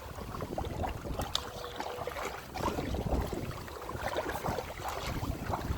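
Water splashing and lapping against a kayak as it is paddled through waves, picked up by a phone held in the cockpit, with a low rumble on the microphone.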